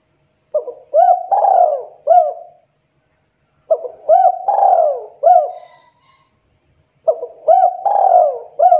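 Spotted dove (tekukur) cooing: three loud phrases of several short, bending coos each, repeated about every three seconds, the dove's full song used as a lure call.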